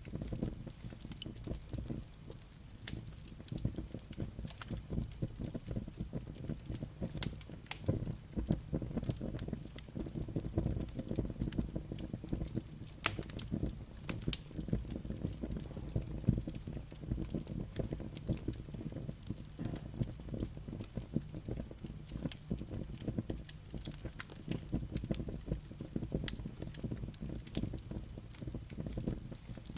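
Wood fire burning in a fireplace: a steady low rumble of flames with frequent irregular pops and crackles from the burning logs and embers.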